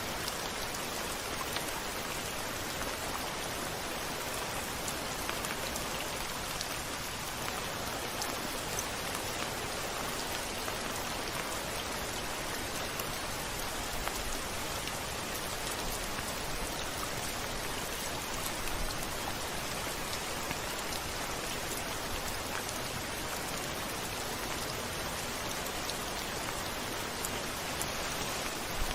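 Steady rain falling and pattering on a surface, with scattered small drop ticks; no thunder in this stretch.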